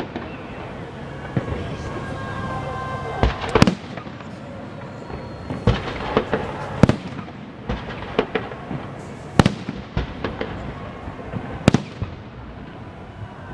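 Holiday fireworks salute: shells bursting in an irregular string of sharp bangs, about eight loud reports a second or two apart, with smaller crackles between them.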